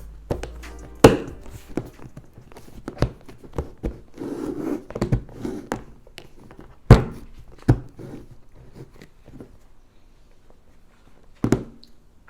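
Scattered knocks and thuds with a little rustling, from kitchen items and food being handled on a counter; the loudest knocks come about a second in and again near seven seconds.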